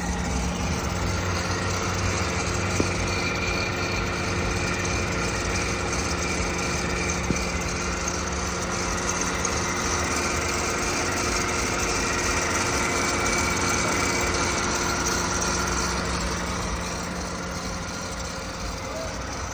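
2007 Mercedes-Benz's turbocharged engine idling steadily, with two light clicks a few seconds apart.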